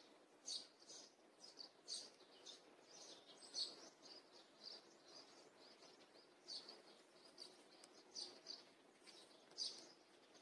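Faint birds chirping outdoors, short high chirps coming irregularly about twice a second.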